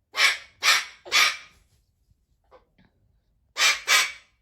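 Pet cockatoo giving short, harsh squawks: three about half a second apart, then two more close together near the end.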